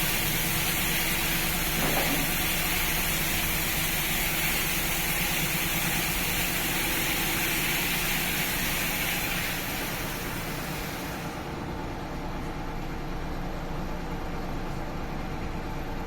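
Risense HP-232 single-arm touchless car wash machine running, its high-pressure water jets hissing over a steady low machine hum. The hiss of the spray dies away about two-thirds of the way through, leaving the hum.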